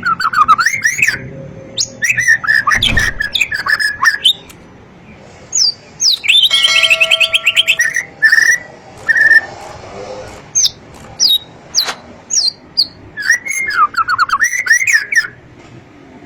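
White-rumped shama (murai batu) singing loud phrases of quick, sharply rising and falling whistled notes, with short pauses between them. About six seconds in comes a fast, buzzy run of rapidly repeated notes lasting about two seconds.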